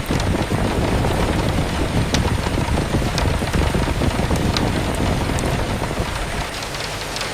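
Steady rain with a strong, low gust of wind rumbling through, easing near the end, and a few sharp drops ticking on a surface.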